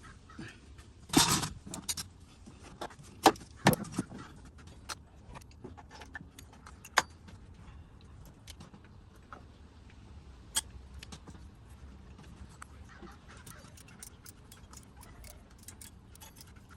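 Metal hand tools clicking, clinking and knocking against metal at irregular intervals, with a louder rattling cluster about a second in and a few sharp single knocks later.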